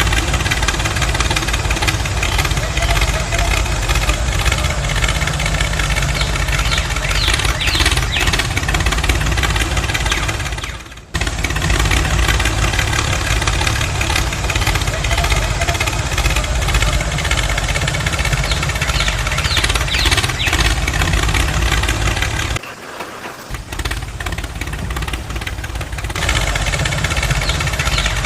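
Small petrol engine of a homemade mini tractor running steadily. It cuts out sharply for a moment about eleven seconds in, then runs quieter and thinner for a few seconds about three-quarters of the way through before coming back up.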